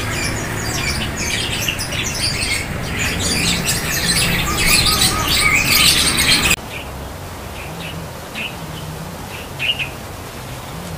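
Many caged songbirds chirping and calling at once in dense, overlapping chirps. About six and a half seconds in, the sound drops suddenly to a quieter background with only a few scattered chirps.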